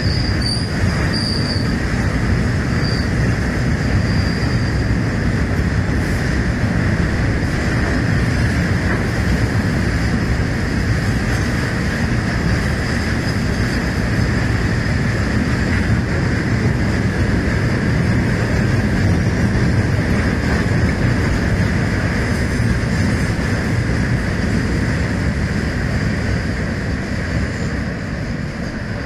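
A long freight train of fully loaded petroleum tank wagons rolling past, a steady loud rumble of steel wheels on the rails with a high wheel squeal in the first few seconds. The rumble fades near the end as the last wagon goes by.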